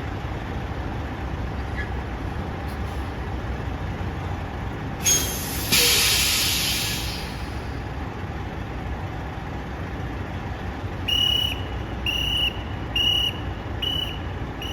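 Semi tractor-trailer's diesel engine running with a steady low rumble. About five seconds in comes a sharp air-brake hiss that fades over about two seconds. Near the end, a truck's backup alarm beeps five times.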